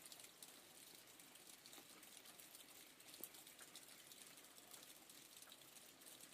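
Light rain, faint: a soft, even hiss with scattered small drop ticks.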